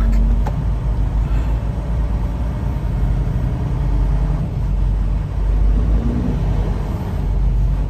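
Diesel engine of a semi-truck running, a steady low rumble heard from inside the cab.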